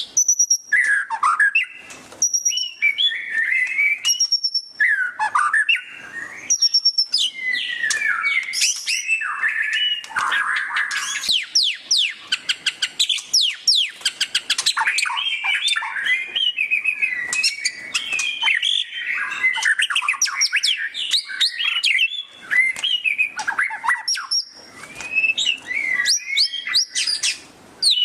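White-rumped shama (murai batu) singing loudly and continuously: a varied song of whistles and sweeps broken by fast chattering trills (the 'ngeriwik' style), with a long run of rapid repeated notes from about ten to fifteen seconds in and another near the end.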